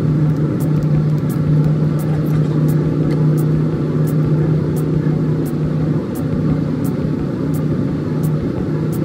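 Passenger train running, heard from inside the carriage: a steady low hum over a rumble, with faint high ticks about twice a second.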